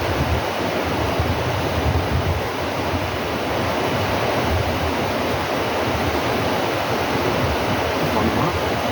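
Steady rushing noise with no distinct events, of the kind made by wind on the microphone or nearby running water.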